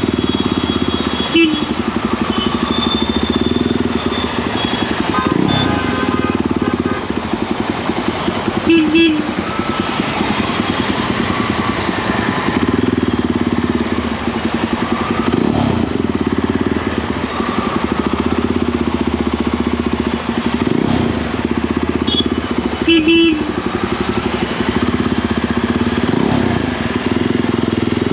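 Motorcycle engine running steadily while riding, its pitch rising and falling a few times with the throttle. Short vehicle-horn beeps sound three times, about a second in, near the middle and near the end.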